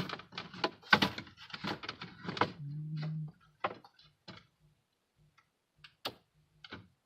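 Plastic clicks and knocks from handling a car's instrument cluster and its wiring connectors, dense at first and then sparse single clicks. A brief low hum sounds about three seconds in.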